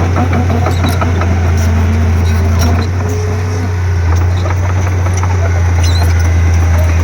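Komatsu D31P bulldozer's diesel engine running steadily with a strong low hum, with light scattered clicks and squeaks over it.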